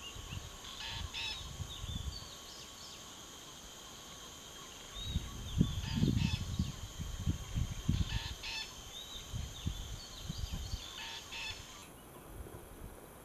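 Parakeet giving short harsh calls several times, over small chirps and a steady high hum that stops near the end. Low knocks and rustles run through the middle and are the loudest part.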